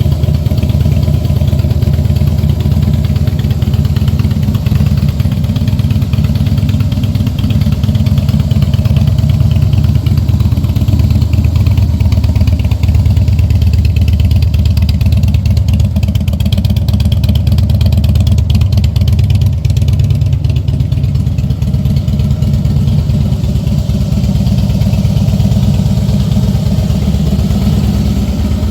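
Harley-Davidson Fat Boy's air-cooled V-twin engine idling steadily, with a loud, even low-pitched pulse.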